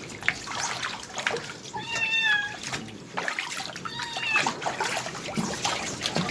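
A kitten mewing twice, high thin cries, while being washed in water, with splashing and handling noises between the cries; the kitten is protesting a flea bath.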